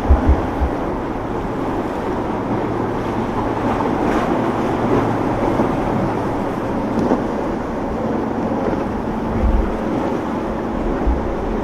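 Boat engines running steadily, with low thumps of wind on the microphone near the start and again about nine and a half seconds in.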